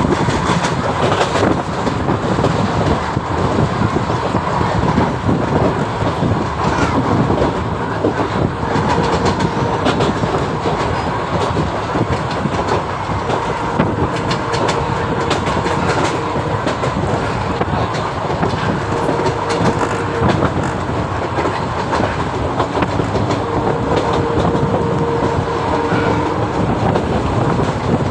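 Express passenger train heard from aboard a coach while running along the track: a steady rumble with rapid wheel clatter over the rails, and a faint whine that comes and goes.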